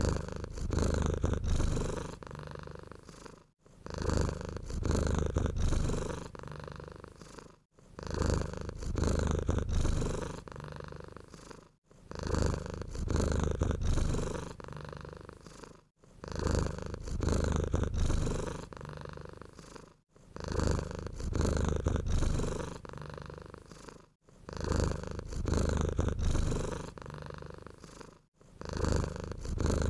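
Domestic cat purring close up: a low, buzzy purr that swells and fades in even cycles about every four seconds, with a short gap between cycles, repeating identically like a looped recording.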